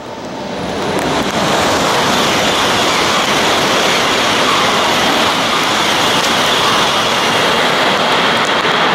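Tohoku Shinkansen train passing at high speed: a loud, steady rushing noise that builds over the first second and a half and then holds.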